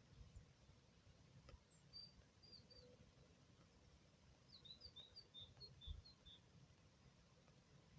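Faint songbird chirping: three short high chirps about two seconds in, then a quick run of about ten chirps around the middle, over a low background rumble.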